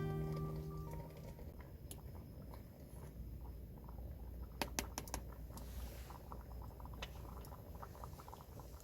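Plucked-string background music fading out, followed by faint scattered small clicks and taps over a low steady rumble, with a few sharper clicks about halfway through.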